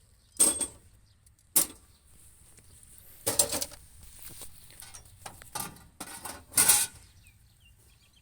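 A series of about six sharp metallic clanks and rattles at irregular intervals, the longest and loudest one near the end.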